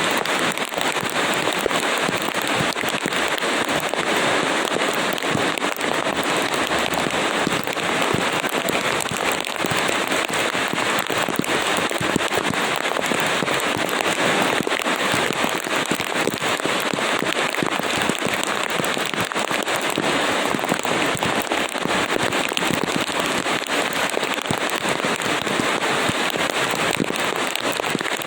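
Steady heavy rainfall: a dense, even crackle of many drops hitting a surface, unchanging throughout.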